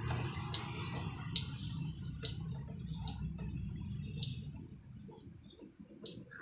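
Small birds chirping over and over in short high notes. A few sharp crackles come from electrical tape being pulled off the roll and wound tightly around a submersible motor's cable joint. A low hum underneath fades out about five seconds in.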